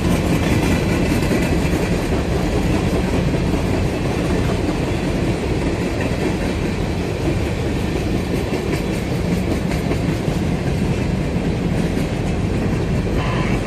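Norfolk Southern freight train rolling past, a steady rumble of wheels on rail with clickety-clack from the cars.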